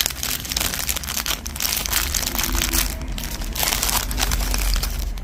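Plastic packaging crinkling and rustling continuously as small jewelry items are rummaged through by hand, over a low steady hum.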